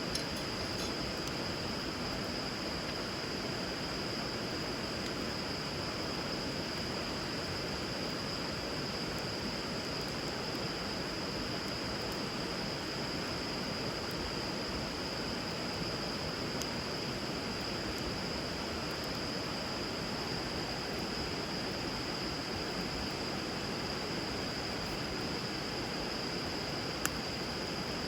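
River water running steadily, with a continuous high-pitched tone over it and a few faint clicks from the wood fire burning on the water, one sharper pop near the end.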